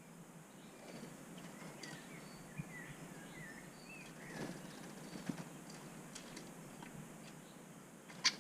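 Small birds chirping around a garden bird table: a run of short, quick chirps a couple of seconds in, with fainter calls behind. A few sharp taps sound through it, the loudest near the end.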